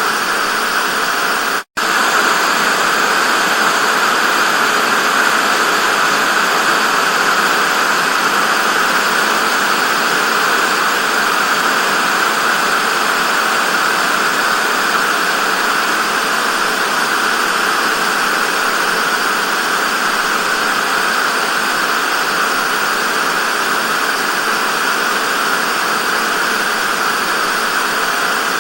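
Steady analogue TV static hiss, strongest in the upper midrange, with a momentary cut to silence near the start.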